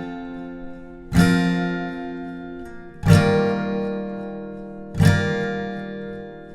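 Background music: slow acoustic guitar, a full chord strummed about every two seconds, three times, each left to ring out.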